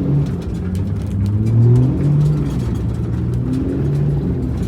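5.9 Cummins diesel engine of a tow truck pulling under acceleration, its pitch rising and dropping back several times, with light rattles.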